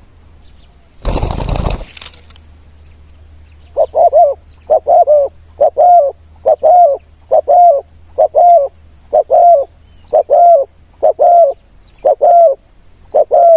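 Spotted dove cooing: from about four seconds in, a long run of about a dozen evenly spaced coo notes, a little under one a second. About a second in, a short gust of wind noise on the microphone.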